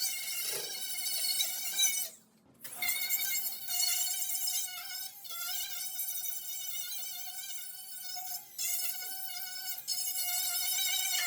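Angle grinder with a grinding pad taking old paint off a steel truck door: a steady high whine that wavers slightly as the pad bears on the metal, cutting out briefly about two seconds in.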